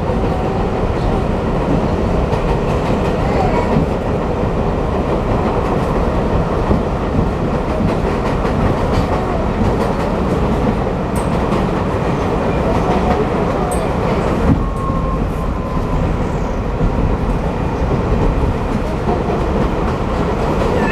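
New York City subway train running at speed, heard from inside the car: a loud, steady rumble of wheels on the rails.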